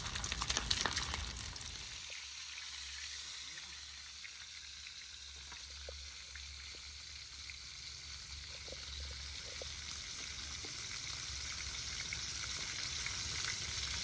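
Food frying in a hot pan: a steady sizzling hiss with faint crackles, a few clicks in the first second or so, growing slightly louder near the end.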